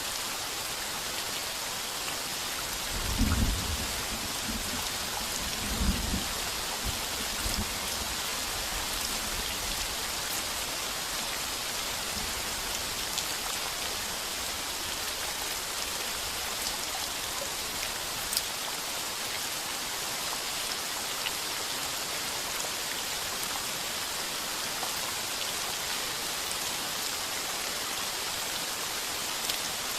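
Heavy rain pounding steadily on a tin roof, with low rolls of thunder about three seconds in and again around six and seven seconds.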